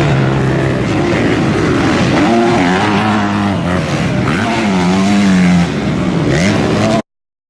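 Several motocross bike engines revving, their pitch repeatedly rising and falling with the throttle, overlapping one another; the sound cuts off abruptly near the end.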